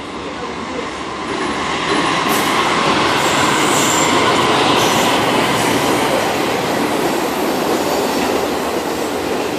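Amtrak passenger train rolling past, a steady rush of wheels on rail that swells over the first two seconds and then holds. A faint high wheel squeal comes in about four seconds in.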